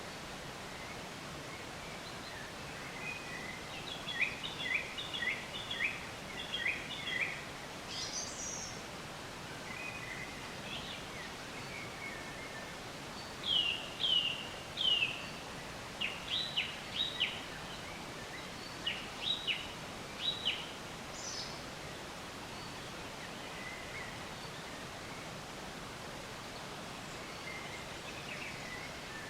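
Songbirds chirping in three or four short phrases of quick, high, down-slurred notes, over a steady background hiss.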